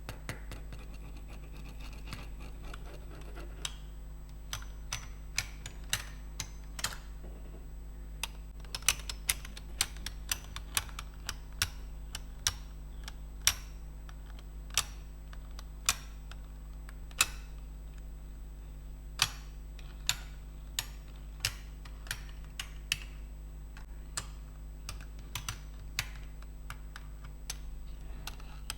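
Computer keyboard keys clicking in irregular keystrokes, a few a second, some much louder than others. A softer rubbing sound comes before the clicks begin, a few seconds in.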